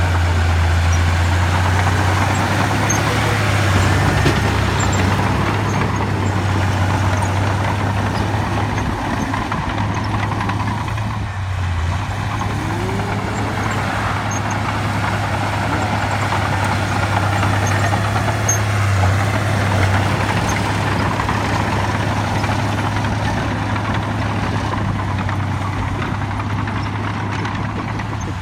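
Heavy diesel earthmoving machinery running steadily, with a deep engine drone that dips briefly a couple of times.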